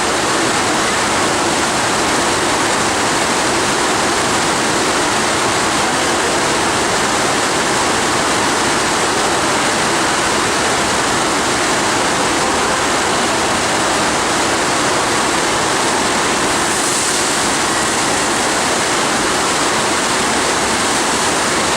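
FlowRider surf simulator's pumped sheet of water rushing steadily over the ride surface, a constant loud rush like a waterfall.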